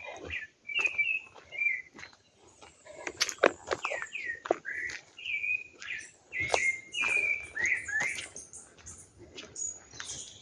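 Birds chirping outdoors: a steady run of short, slurred whistled notes, some falling and some rising, mixed with sharp ticks, busiest between about three and eight seconds in.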